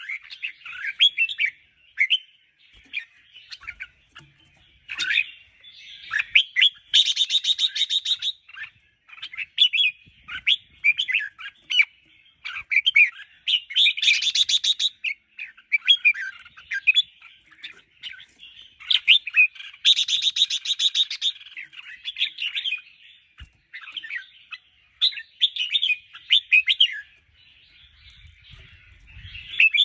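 Red-whiskered bulbul singing a run of short, quick warbling phrases, broken three times by a burst of fast rattling chatter.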